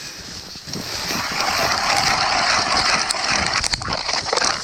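Strong wind blowing over the microphone as a steady rushing noise, swelling about a second in and staying loud until near the end.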